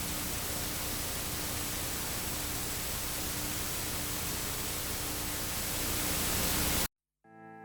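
Steady static hiss, like a detuned television, with a faint hum under it; it swells slightly and then cuts off suddenly about seven seconds in. After a short silence, music with a sustained effects-laden electric guitar starts fading in right at the end.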